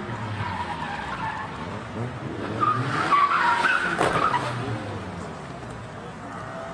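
Rally car engine revving with tyres skidding, loudest midway, and a sharp knock about four seconds in.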